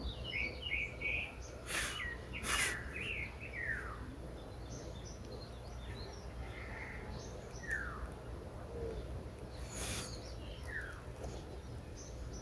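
Songbirds chirping and calling: a quick run of high chirps in the first few seconds, then scattered short falling notes, over a steady low rumble of background noise with a few brief noisy bursts.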